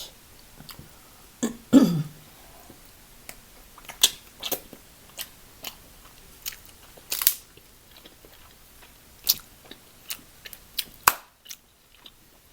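Crab legs being cracked and picked apart by hand, with sharp irregular snaps and clicks of shell, mixed with chewing close to the microphone.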